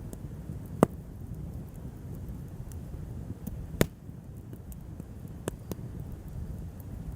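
Wood fire crackling, with two loud pops about a second in and near the middle and a few softer snaps later, over a steady low rumble.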